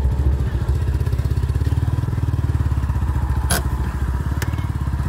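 A vehicle engine idling steadily with a fast, even throb, and a single sharp click about three and a half seconds in.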